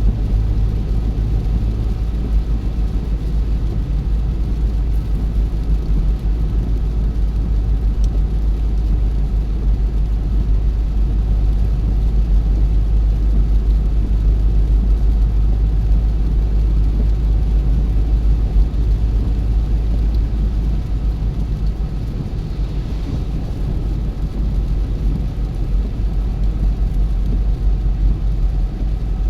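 Car being driven: a steady low rumble of tyres on the road and the engine, with no marked changes.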